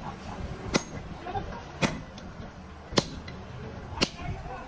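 Hand hammer striking steel on an anvil during forging. Four sharp, ringing blows about a second apart.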